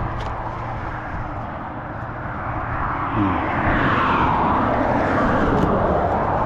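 Vehicle engine noise that grows louder about three seconds in.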